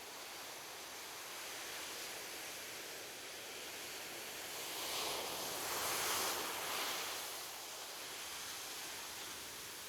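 Ocean waves on a beach, a steady wash of surf, with one wave breaking and washing in louder about halfway through.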